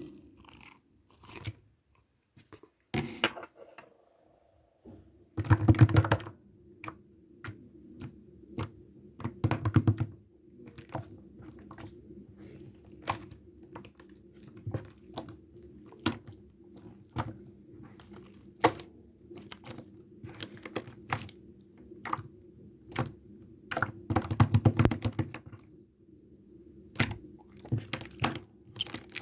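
Close-up wet mouth sounds: irregular clicks and smacks, with a few louder bursts, over a steady low hum that starts a few seconds in.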